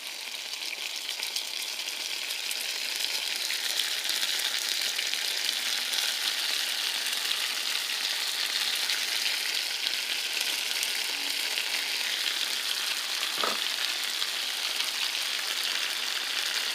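Vegan buffalo wings sizzling in hot oil in a small pot, growing louder over the first few seconds as barbecue sauce is added, then holding steady. A single short knock about thirteen seconds in.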